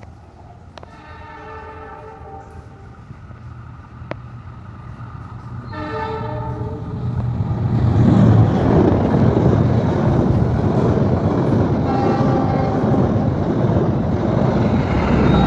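Passenger train sounding its multi-note horn in several blasts, the first about two seconds long, while the rumble of the train grows steadily louder from about halfway through and stays loud.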